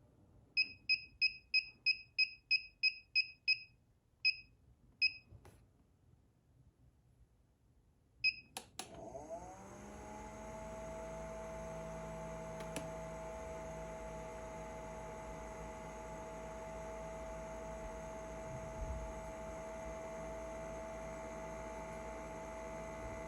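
Electronic buzzer beeping: a quick run of about a dozen short beeps, then three single beeps spaced out. About nine seconds in there is a click, then a fan spins up, its pitch rising, and settles into a steady whirring hum.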